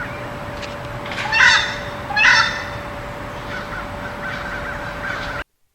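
Crow calling: two loud harsh caws a little under a second apart.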